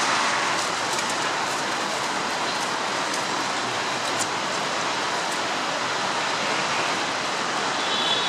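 Steady rushing noise of road traffic passing by, even and unbroken with no distinct engine note standing out.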